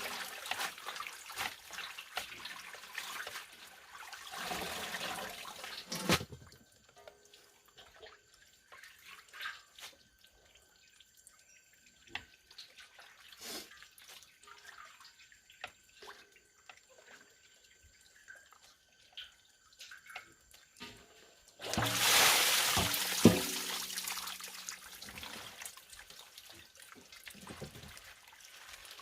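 Water splashing and pouring, then a quiet stretch of scattered drips. A second burst of pouring water comes about three-quarters of the way in and fades out.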